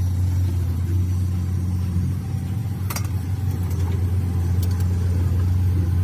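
An engine running steadily at idle, a low drone, with a sharp click about three seconds in and fainter clicks near five seconds.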